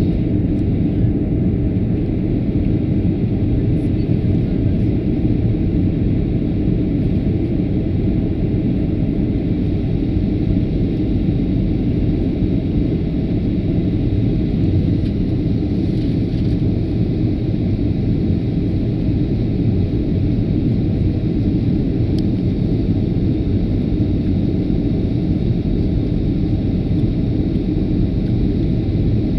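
Steady, even low rumble of an airliner in flight, the engine and airflow drone heard inside the cabin.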